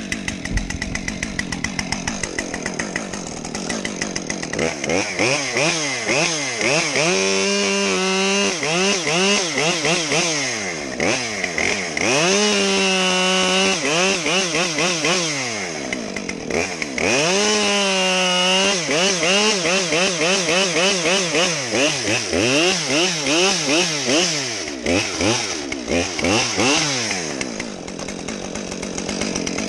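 A 50cc two-stroke chainsaw running hard and bucking logs, its engine revving up and dropping back over and over, with a few longer stretches held at high revs.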